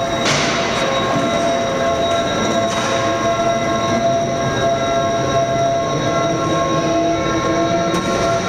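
Lifting machinery raising a railway car body in a rolling stock depot, running with a steady whine of several held tones over a noisy hum, with brief knocks near the start and about three seconds in.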